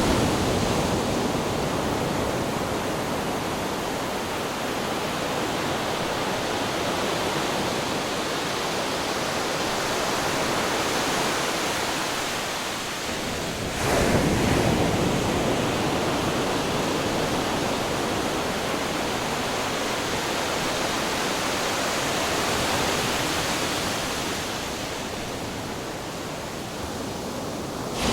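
Ocean waves crashing on rocks: a continuous rush and hiss of surf, with a fresh, louder surge about halfway through.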